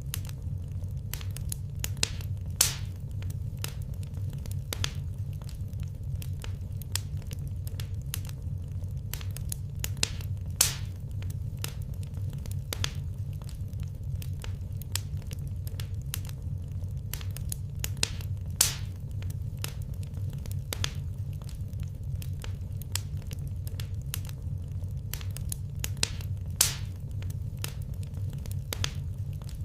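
Wood fire crackling, with a dense run of small pops and four louder pops about eight seconds apart, over a steady low rumble.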